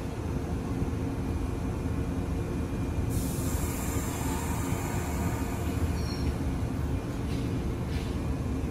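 Izu Kyuko 2100 series Resort 21 electric train pulling away from the platform: a steady low rumble and hum, with a hiss that comes in suddenly about three seconds in.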